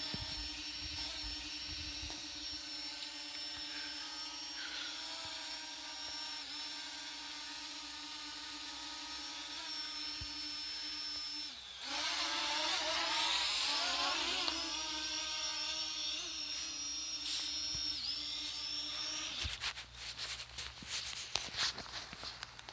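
Parrot ANAFI quadcopter's motors and propellers whining steadily as it hovers and comes in to land. The pitch wavers up and down for a few seconds about halfway through, and the motors shut off about 19 seconds in, followed by a few light clicks.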